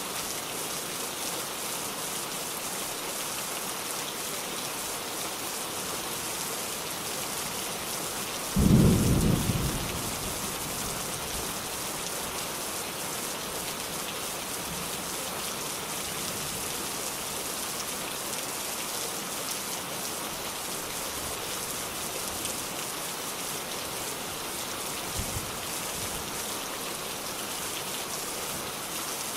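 Steady rain falling. About nine seconds in, a sudden loud clap of thunder rumbles low and dies away over a second or so, and a much fainter low rumble comes near the end.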